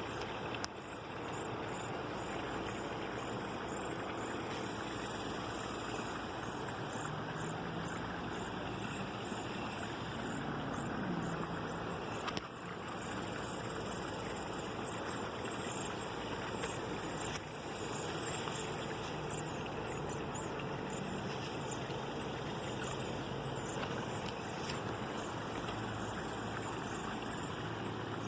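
Small birds chirping, many short high calls in quick succession, over a steady background noise. A faint low droning tone wavers up and down around the middle.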